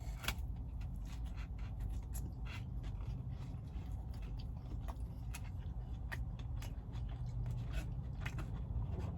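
A person chewing and biting a fast-food burger close to the microphone, with scattered short wet clicks and smacks of the mouth.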